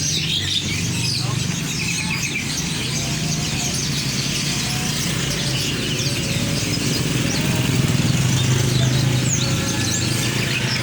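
Many caged birds chirping and twittering at once, over a steady low hum and faint background voices.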